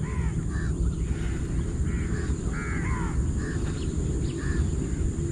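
A bird calling again and again in short, harsh calls, about a dozen of them at uneven intervals. Under the calls runs a steady low rumble.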